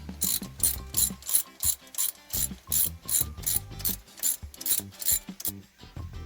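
Hand ratchet wrench clicking in an even rhythm, about three clicks a second for roughly five seconds, as a bolt is run down during cylinder head reassembly.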